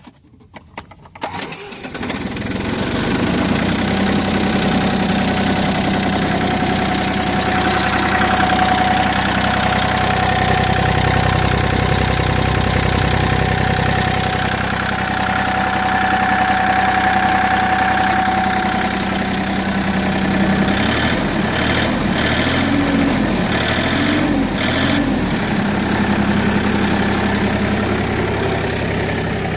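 Iseki TU185 compact tractor's four-cylinder diesel engine cranking and catching a second or two in, then running steadily. Its note wavers up and down a few times near the end.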